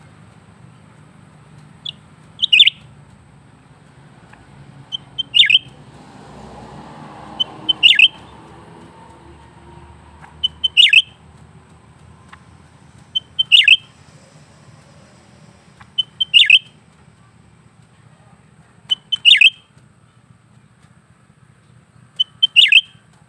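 Cucak ranting leafbird giving a short, sharp call about every two and a half to three seconds, nine times. Each call is a quick cluster of two or three high notes that drop steeply in pitch.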